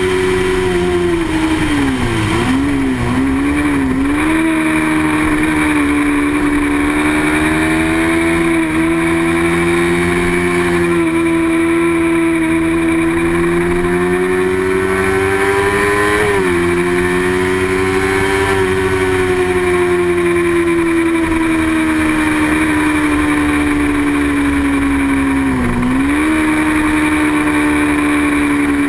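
Racing motorcycle engine running hard at high revs. Its pitch drifts slowly up and down and dips briefly three times: a wavering dip a couple of seconds in, a sharp one midway and another near the end.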